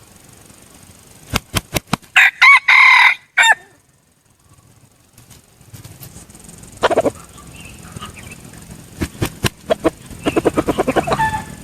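Red junglefowl rooster giving one short crow about two seconds in, followed later by a run of rapid clucks near the end.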